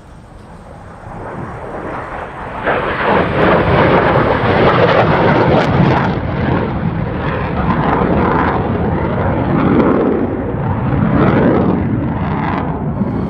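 F-16 fighter jet engine roaring during a demonstration pass; the roar swells over the first few seconds, stays loud, then falls away sharply near the end.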